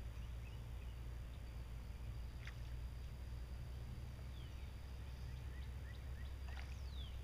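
Faint bird chirps over a steady low rumble: a short run of quick chirps a little past halfway, then a falling chirp near the end, with a couple of soft clicks.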